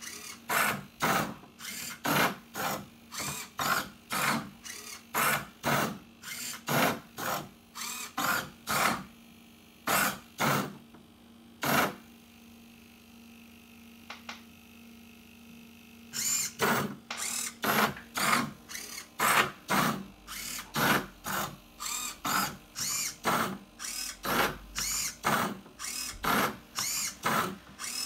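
A 3D-printed Rubik's cube solving robot turning the cube's faces: a rapid run of short motor whirs, about two a second, each one a face turn. The turns stop for about four seconds around the middle, leaving a steady low hum, then start again.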